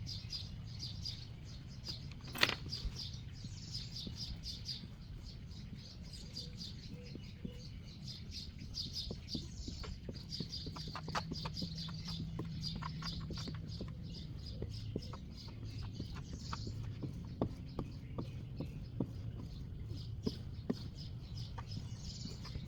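Birds chirping repeatedly in quick high notes over a steady low rumble, with scattered small clicks and one sharp knock about two and a half seconds in.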